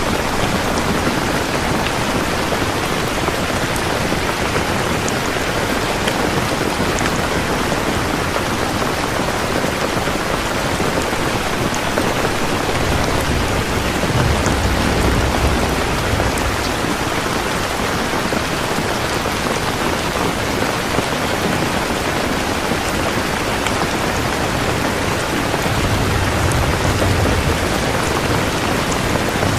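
Steady, heavy rain falling, an even hiss of drops, with a low rumble of thunder about halfway through and again near the end.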